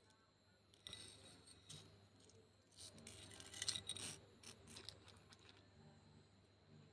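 Faint rubbing and scraping of small objects being handled, in short scratchy bursts, loudest about three to four seconds in.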